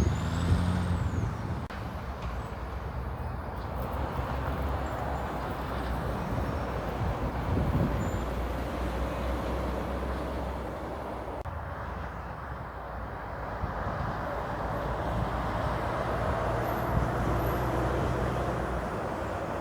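Heavy diesel trucks and road traffic passing, with engine drone and tyre noise; the sound shifts suddenly about halfway through.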